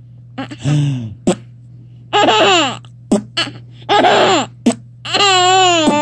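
A baby laughing in short high-pitched bursts at an adult's silly noises, with one low vocal noise about a second in and a longer wavering baby vocalisation near the end.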